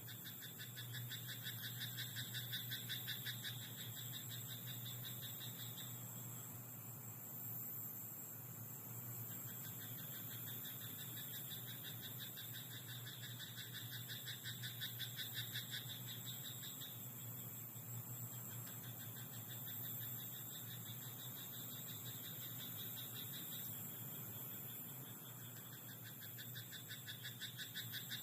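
Frogs calling in a rice paddy: long bouts of rapid, pulsed croaking, each lasting several seconds, with pauses of a few seconds between them. A steady high hiss and a low steady hum run underneath.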